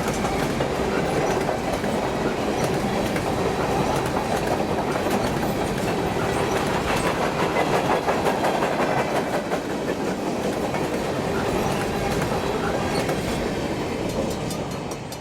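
Freight cars of a mixed freight train rolling past at speed: a steady rumble with wheels clicking over rail joints. It fades away near the end.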